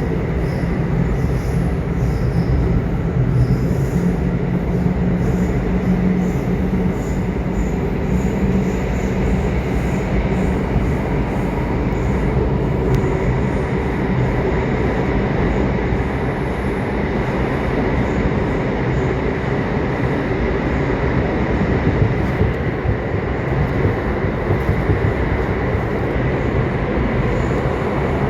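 Subway train running, a steady loud rumble of wheels on track with a faint low hum over the first few seconds.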